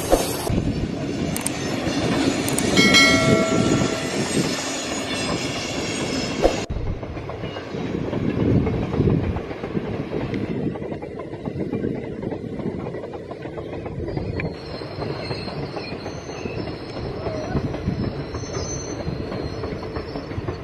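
Indian Railways diesel locomotive hauling a passenger express, sounding a horn blast of about a second and a half a few seconds in. After two abrupt cuts, passenger coaches roll past with wheels rattling on the track and a high steady squeal, typical of wheel flanges on a curve.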